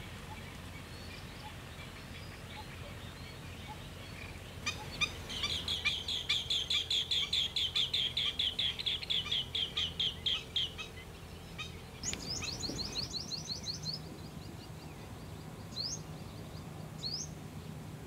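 Wild bird calling: a fast, even run of sharp repeated notes lasting about six seconds, then a shorter run of higher upslurred notes, and two single upslurred notes near the end.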